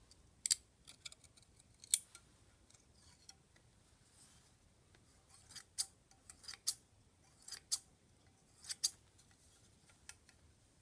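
Antique hand grass trimmers being worked, their steel blades closing with sharp snipping clicks about a dozen times at irregular intervals, some in quick pairs.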